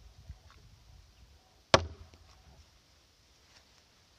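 One sharp knock about two seconds in, a tool striking the wood of a door as the wooden dowel pin of its dovetail bar is worked out, with a few faint taps before it.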